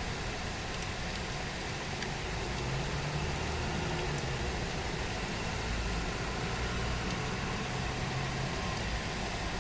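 Steady hiss of heavy rain, with a low engine hum from a vehicle joining about two and a half seconds in and fading near the end.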